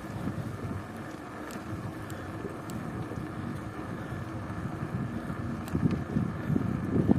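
Wind buffeting a microphone during a bicycle ride: a gusty low rumble that grows stronger near the end, with a few faint ticks.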